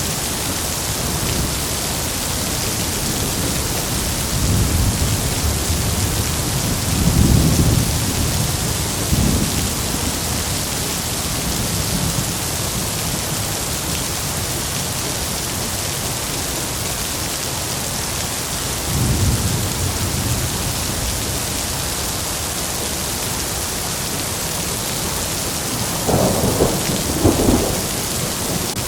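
Heavy rain falling steadily, with thunder rumbling low several times: a long roll a few seconds in, another about two thirds of the way through, and two sharper peals near the end.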